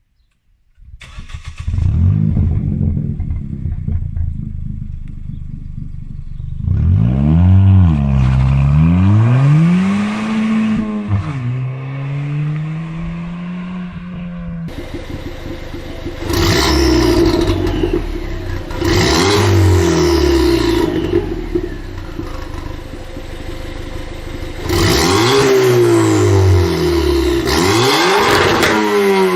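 Ford Fiesta ST Mk7's turbocharged 1.6-litre four-cylinder engine running through its exhaust, blipped up and down. Then, after an abrupt change about halfway, it is revved hard several times, each rev rising and falling.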